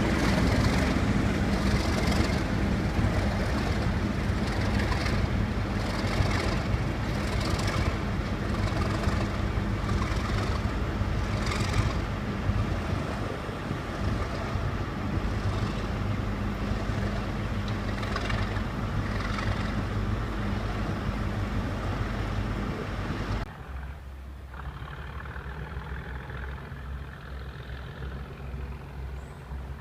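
Class 37 diesel locomotive's English Electric V12 engine working hard under load, a loud heavy throb that slowly fades, then turns suddenly quieter about 23 seconds in and carries on as a lower, pulsing engine note.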